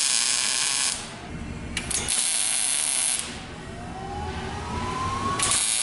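Welding a sheet-steel car panel to fill holes: three bursts of welding hiss and crackle, about a second each, with short pauses between them. A faint rising whine comes in just before the last burst.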